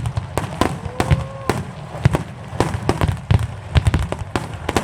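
Aerial fireworks shells bursting in quick succession, about three sharp bangs a second, each with a low rumbling boom.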